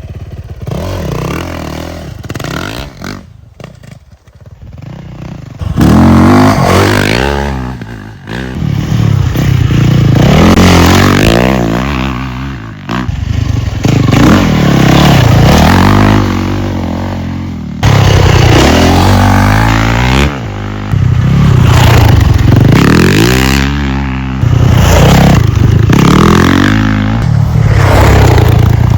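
Dirt bike engine riding hard on a sand track, its pitch climbing and dropping again and again as it accelerates and shifts. It is quieter and uneven for the first few seconds, then loud from about six seconds in.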